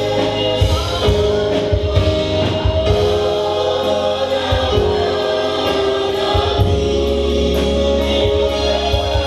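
Gospel choir singing over a band, with held notes, a bass line and a steady beat.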